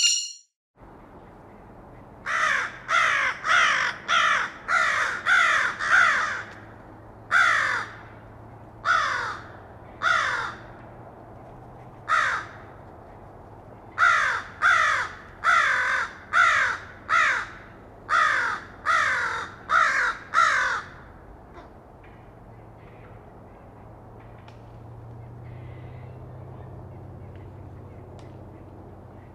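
A bird giving about twenty short, harsh calls in quick runs, each call falling in pitch. The calls stop well before the end, leaving only a faint steady background hum.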